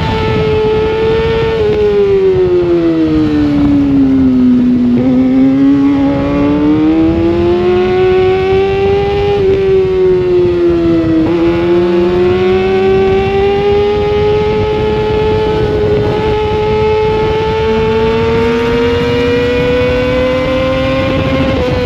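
Sportbike engine heard onboard at high revs. The revs fall away over about three seconds, then climb again, with a quick drop about halfway through as it shifts up, and keep rising slowly after that.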